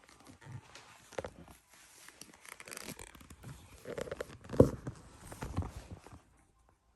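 Irregular rustling, clicks and knocks of something being handled, with one louder knock a little past halfway; the sounds stop about a second before the end.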